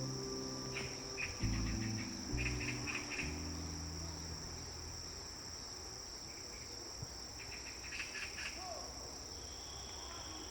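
Insects chirping in a steady high trill, with short groups of faster chirps every second or so. A few low sustained music notes fade out over the first three seconds.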